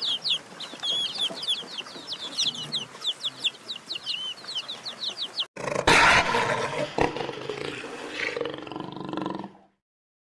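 Rapid, many-voiced high-pitched chirping, typical of chicks or small fowl, for about five and a half seconds, then an abrupt change to a different animal's long, low-pitched call that lasts about four seconds.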